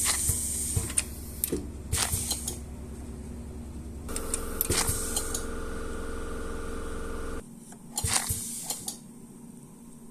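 Sharp clicks and clatter of small hard objects being handled, then a small electric motor humming steadily for about three seconds that cuts off abruptly, followed by a few more clicks.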